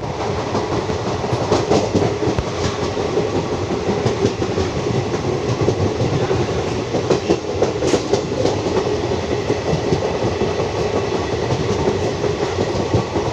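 Passenger train running on the rails: a steady rumble with irregular wheel clatter.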